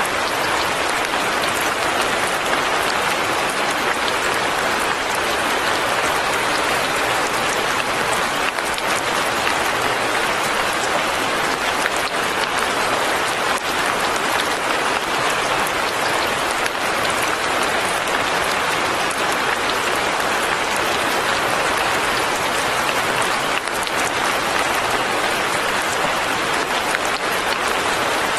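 Steady light rain, a dense even patter of drops that does not let up.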